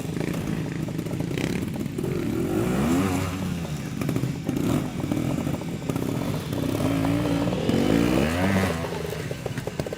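Trials motorcycle engine revved in short bursts, its pitch climbing and dropping again and again, with the strongest revs about two and a half seconds in and again around seven to eight seconds in.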